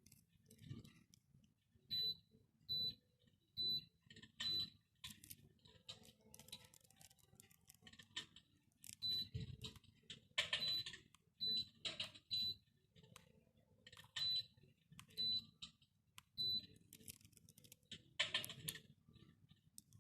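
Short, high electronic beeps from a REALFLAME Joker 62 electric fireplace's controls, one at a time at irregular gaps of a second or more, each confirming a button press as settings are changed. Faint clicks and handling knocks come in between.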